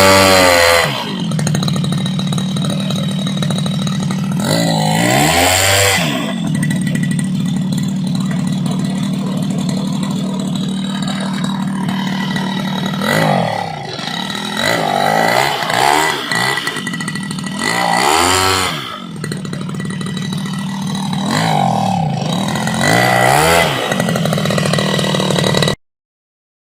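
30cc two-stroke grass-cutter engine driving a 17x10 propeller, running steadily and revved up and back down several times. The sound cuts off abruptly about a second before the end.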